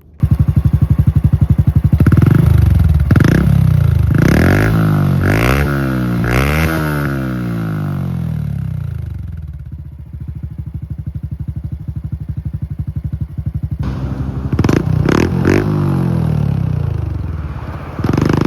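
Honda Super Cub 110 Pro's air-cooled single-cylinder four-stroke engine running through an aftermarket Yoshimura GP-MAGNUM cyclone muffler. It is blipped up and down about five times, settles to a steady idle, and is revved again in a few quick blips later on.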